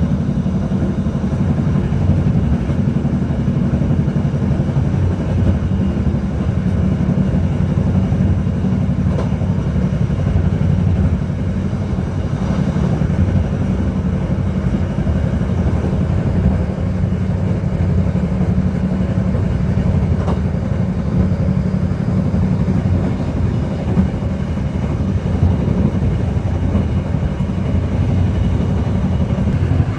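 Passenger train running along the track, heard from the rear of the train: a steady low rumble of wheels on rail.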